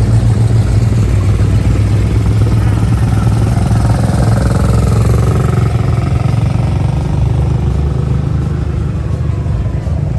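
Loud, steady low rumble of vehicle engines running, with a faint tone sliding down in pitch through the middle.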